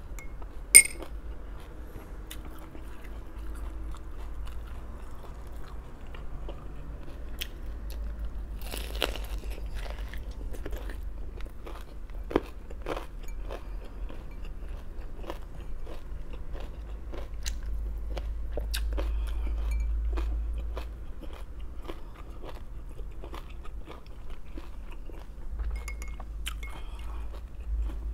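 Close-miked biting, crunching and chewing of raw vegetables, in many short crisp crunches. A single sharp click about a second in is the loudest sound, and a low steady hum runs underneath.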